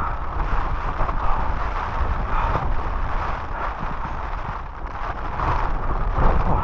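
Strong gusting wind blowing across the microphone, rising and falling in surges, with a heavy low rumble.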